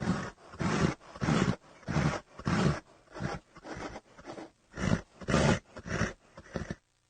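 Horse snorting and blowing in a rapid series of short, breathy bursts, about two a second.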